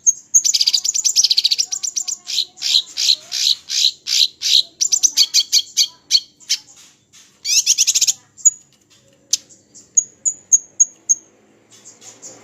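Small songbirds singing a fast, varied song of high chirps and trills, then, about nine seconds in, a string of short thin high whistled notes evenly spaced.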